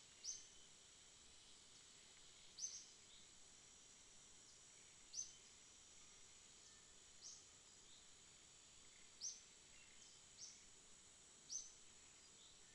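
Faint night ambience: a steady high insect chorus, with a short high chirp repeated every one to two seconds.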